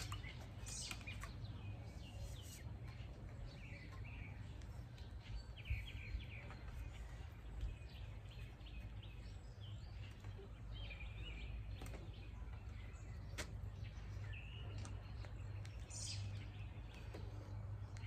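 Outdoor ambience: birds chirping off and on over a steady low rumble, with a few faint knocks.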